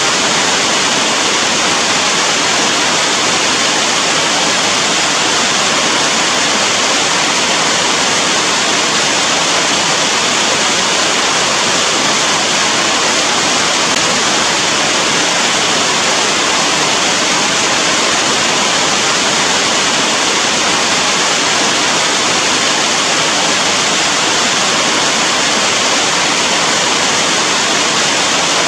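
Steady heavy rain, an even unbroken hiss with no single drops or other sounds standing out.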